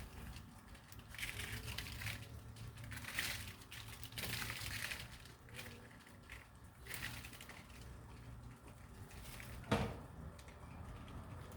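Birds moving about, making irregular rustling and crackling bursts, with one sharp knock about ten seconds in and faint dove coos.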